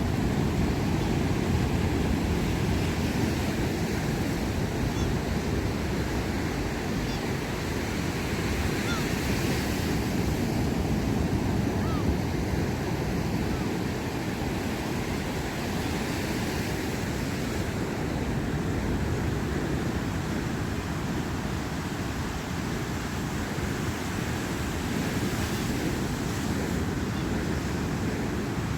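Sea surf: waves breaking and washing ashore in a continuous, steady rush that swells gently.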